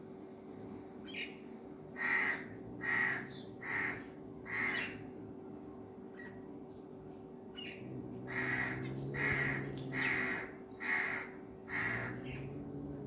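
Harsh, cawing bird calls repeated in two runs: four about a second apart starting about two seconds in, then five more from about eight seconds in, over a steady low hum.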